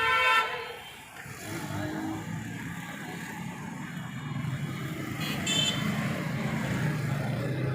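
A motor vehicle's engine running with a steady low rumble that grows slightly louder, with a horn honk right at the start and a short, higher-pitched toot about five seconds in.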